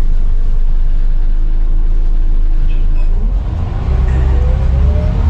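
Scania CN94UB bus's diesel engine running with a steady low rumble, then pulling away about three seconds in, its rumble growing heavier under a rising whine.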